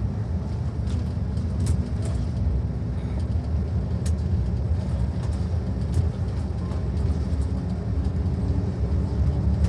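Steady engine and road rumble inside a moving tour vehicle, an even low drone with no change in pace.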